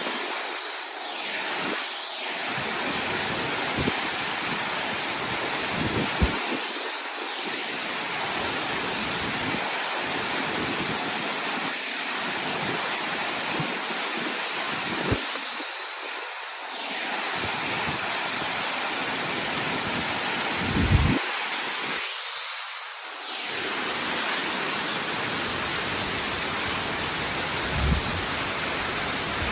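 Waterfall rushing in a steady, unbroken wash of water noise, with a few brief low thumps scattered through it.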